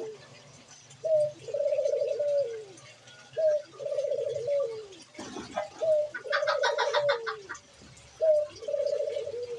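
A dove cooing the same phrase four times, about every two and a half seconds: a short rising note, then a rolling coo that falls away at the end. About halfway through, a higher rapid chirping sounds over one of the coos.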